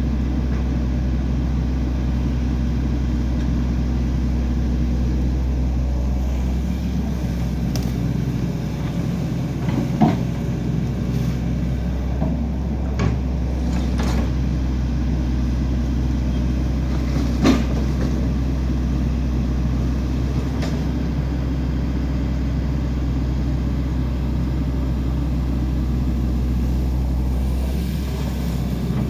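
A large engine running steadily with a low, even drone, the lowest note shifting slightly about six seconds in, and a few sharp knocks or clanks scattered through it.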